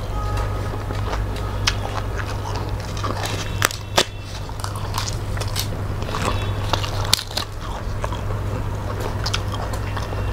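Close-miked eating by hand: chewing and crunching of rice, fish and crisp papad, with several sharp cracks, the strongest about 3.5, 4 and 7 seconds in, over a steady low hum.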